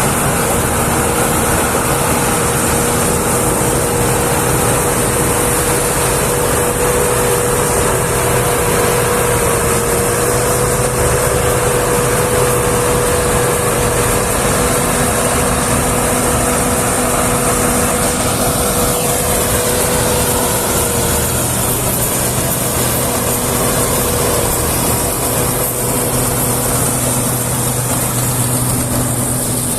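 Combine harvester running steadily under load, a constant engine drone with a steady high whine on top that weakens about two-thirds of the way through.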